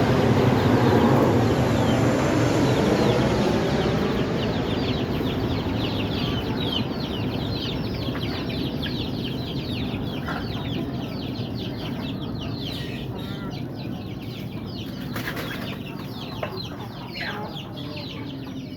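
A flock of chickens, likely young chicks under a heat lamp, peeping over and over in short, high, falling calls, many at once. A steady low rumble is loudest at the start and fades as the calls come to the fore.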